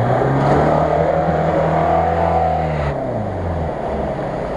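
Lada Niva 4x4 engine pulling steadily under load while wading through floodwater, with water washing and splashing around the wheels. About three seconds in, the engine note drops and changes as a second Niva takes over.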